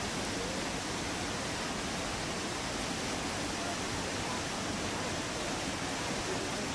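Steady rushing roar of a waterfall cascade, even and unbroken.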